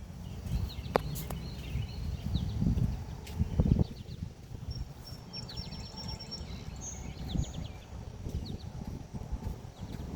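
Small forest birds chirping in short, quick notes, with a thin, high, held trill about five seconds in, over an uneven low rumble of wind on the microphone that swells around three to four seconds in.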